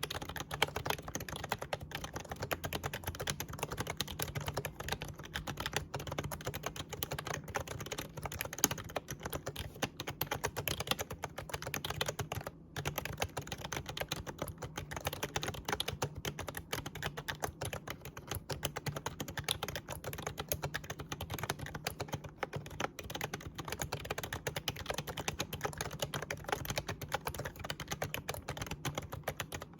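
Continuous fast typing on an Actto retro mini Bluetooth keyboard with typewriter-style keys and membrane switches: a dense stream of soft key clicks, broken by a brief pause about twelve seconds in, over a low steady hum.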